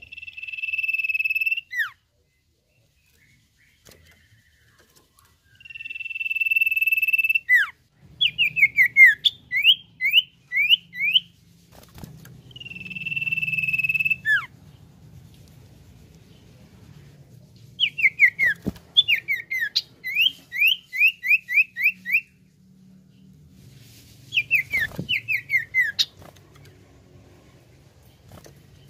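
Common iora (cipoh) singing: three long, steady, high whistles, each ending in a sharp downward slide, alternating with runs of quick down-slurred notes at about three a second.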